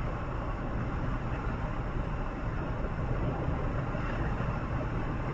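Steady running noise of a moving vehicle travelling between towns: an even rumble and hiss without breaks.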